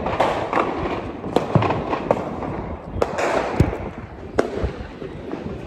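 Firecrackers and fireworks going off: many sharp bangs at uneven intervals over a continuous crackling haze.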